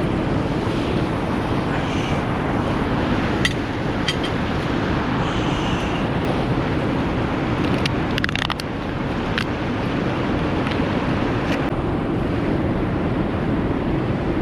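Steady rushing outdoor background noise, with a few light clicks and taps, a small cluster of them about eight seconds in.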